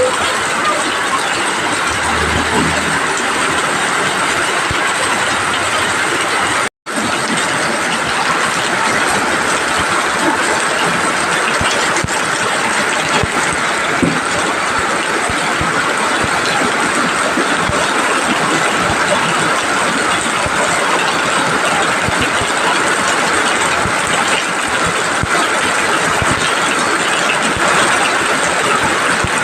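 Heavy rain pouring down, a steady dense hiss with fine crackle throughout. The sound cuts out for an instant about seven seconds in.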